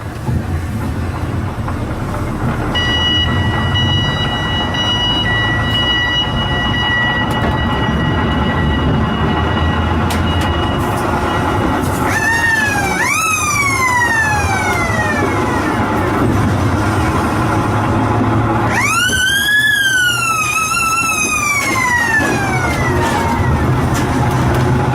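Emergency vehicle siren: a steady high tone for several seconds, then a rising and falling wail in two spells, over a steady low rumble.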